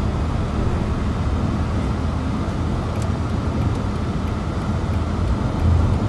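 Steady low rumble of a moving vehicle travelling on the road, swelling slightly near the end.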